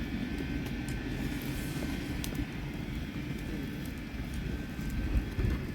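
Wood campfire burning, with a few faint crackles over a low steady rumble.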